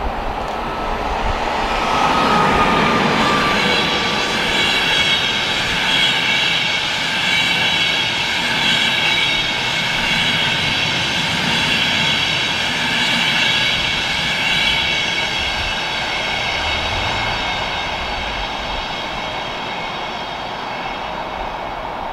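Electric train passing close by: a steady rush of wheels on rails with several high whining tones held over it, and a short falling tone about two seconds in. It swells about two seconds in and eases off over the last several seconds.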